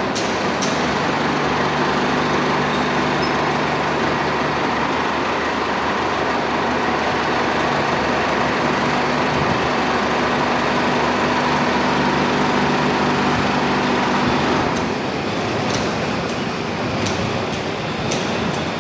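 Industrial aluminium melting furnace running, a loud steady rushing noise with a low hum. The hum drops away about 15 seconds in, and a few sharp clicks follow.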